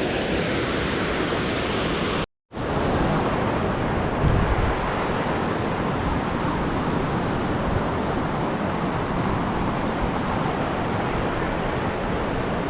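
Steady roar of rushing water from a waterfall and river, with a low rumble of wind on the microphone swelling briefly about four seconds in. The sound cuts out for a moment about two seconds in.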